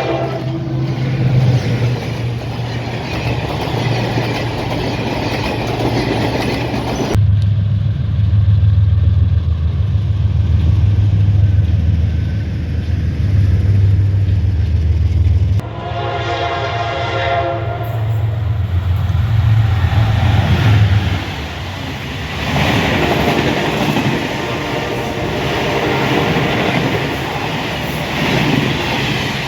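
Train running, with a low engine drone and rumbling wheels, in several abruptly cut clips; a train horn sounds about sixteen seconds in.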